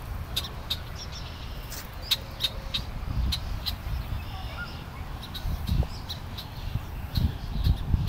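A bird giving short, sharp calls over and over, two or three a second, as it dives at the person it is attacking, the agitated calls of a bird defending its spot. A low rumble runs underneath on the microphone.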